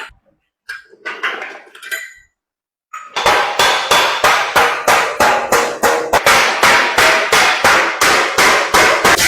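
Hand hammer striking sheet metal in quick, even blows, about four a second, starting about three seconds in: hammering the folded-over rim of a metal basin. Before that, a couple of short clatters.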